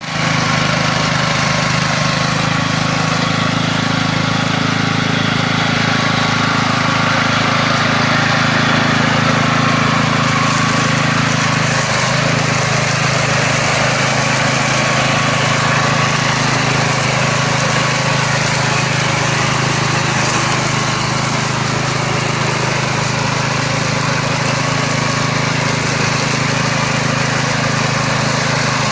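Orchard weed mower with a wire-string cutting head, its engine running steadily with a high whine above it, the pitch shifting slightly about twelve seconds in.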